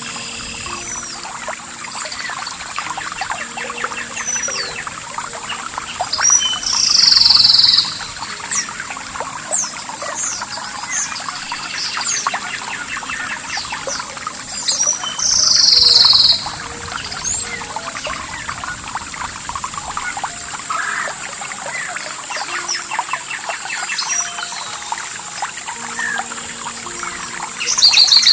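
Small birds chirping and calling over trickling water, with two louder, longer calls about a quarter and just over half way through. A constant high thin tone lies under it all.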